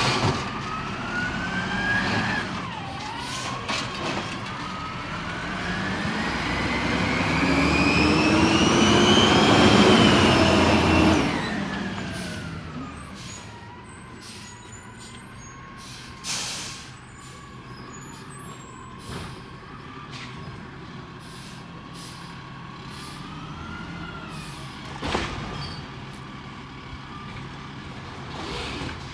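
Peterbilt 320 garbage truck revving up while its hydraulics whine, the pitch rising to a peak about ten seconds in and then dropping off suddenly. A wavering hydraulic whine carries on afterwards, with a few sharp metal clanks.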